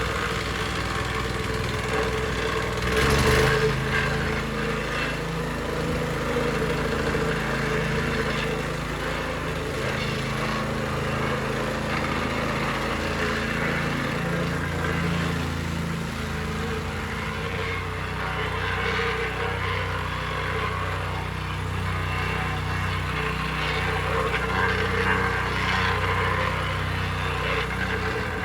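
Petrol plate compactor (wacker plate) running steadily, its small engine and vibrating plate going on without a break, with a brief louder clatter about three seconds in.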